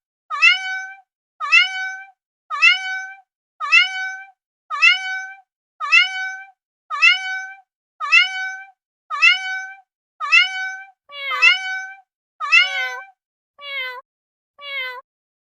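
Cat meows repeated about once a second, each one alike, as if one meow were looped. About eleven seconds in, a lower, falling, quieter meow takes over and repeats the same way.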